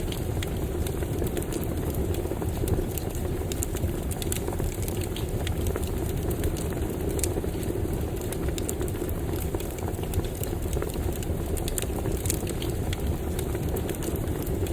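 Campfire burning: a steady low rush of flame with frequent small crackles and pops from the burning wood.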